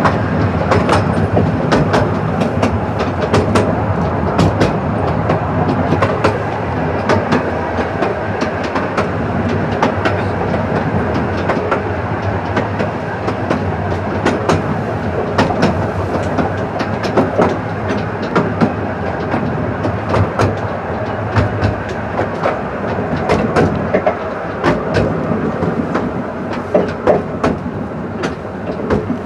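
Narrow-gauge railway carriage running along the track, with a steady rolling rumble and many sharp, irregular clicks of the wheels over the rail joints.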